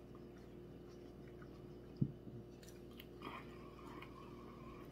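Faint closed-mouth chewing of food, with a single sharp knock about two seconds in.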